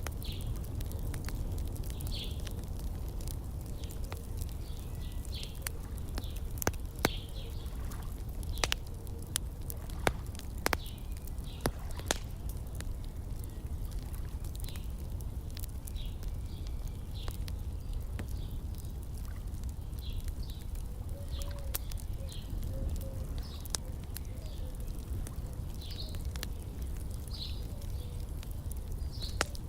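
Wood fire crackling with a handful of sharp pops in the middle stretch, over a steady low rumble, while small birds chirp briefly throughout.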